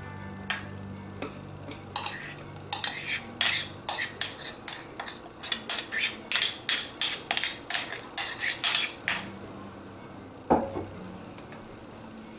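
Metal utensil clinking against a bowl in a rapid, uneven run of sharp taps and scrapes for about eight seconds, followed by one louder knock.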